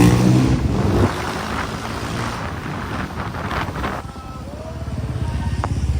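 A motor vehicle's engine running with a steady, fast-pulsing low rumble, and wind noise on the microphone.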